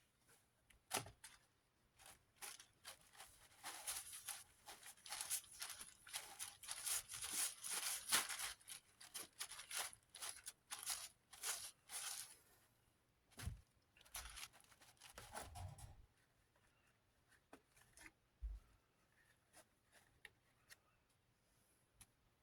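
Quick, closely spaced scraping and rubbing strokes on a plastic desk-fan blade, working a paint splatter off it. They run dense for about ten seconds, then thin out to a few scattered scrapes and taps.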